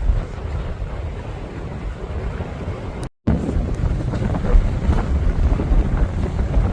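Wind buffeting the microphone: a steady rushing noise with low gusty rumble. The sound cuts out completely for a split second about three seconds in.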